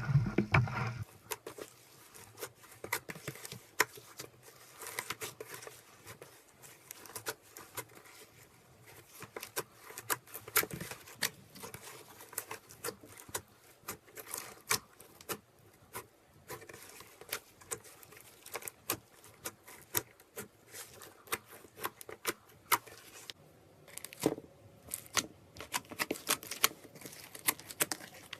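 Slime being squeezed and worked by hand: a dense, irregular run of sticky clicks and small pops.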